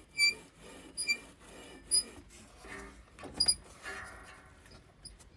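Several sharp metal clinks with a brief high ringing, spaced irregularly about a second apart, with some scraping between them.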